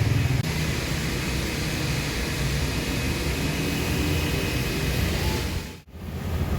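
Steady machine noise: a low hum with an even hiss over it, cutting out abruptly for a moment near the end.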